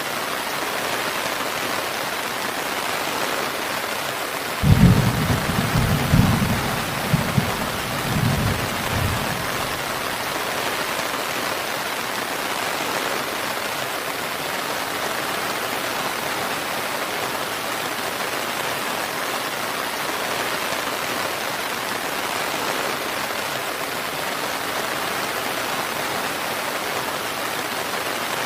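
Steady rain falling. About five seconds in, a low rumble of thunder starts suddenly and rolls on in several swells for about four seconds.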